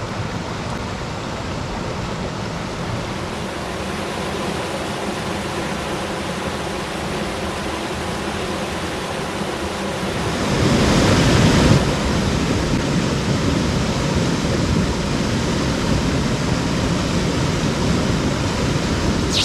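Mountain stream water rushing steadily over rocks, with a brief louder rush about halfway through.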